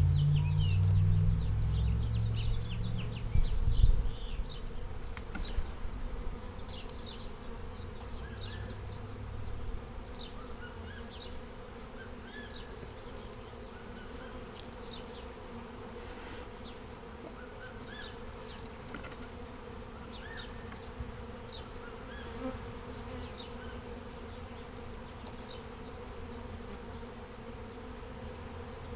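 A swarm of honey bees buzzing in a steady, dense hum while being hived into a box. Heavy low rumbling and a loud knock come in the first four seconds, then the hum carries on alone.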